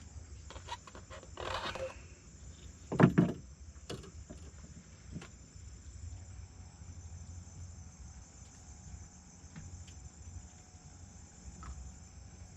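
Night insect chorus of crickets: a steady high-pitched drone over a low hum. A brief rustle comes about a second and a half in, and a single loud knock, the loudest sound, about three seconds in.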